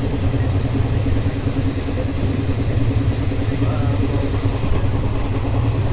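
Steady running rumble of a passenger train, heard from inside the carriage.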